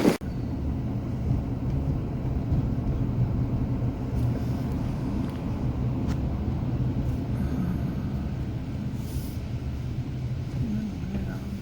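Steady low rumble of a vehicle on the move, running evenly throughout.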